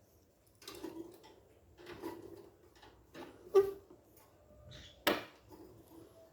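Handling noises: a few rustling scrapes and knocks, with a sharp click about three and a half seconds in and another sharp knock about five seconds in.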